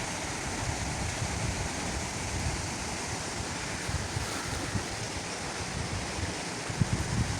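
Wind-driven waves splashing and lapping in a steady wash, with wind rumbling on the microphone and a few low thumps near the end.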